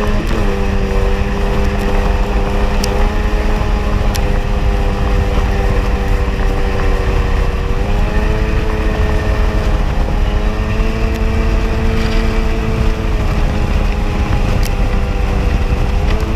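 Two-stroke engine of a 1994 Sea-Doo XP jet ski running at a steady cruising speed, its pitch rising slightly about eight seconds in and easing near the end, over a low rush of wind and water.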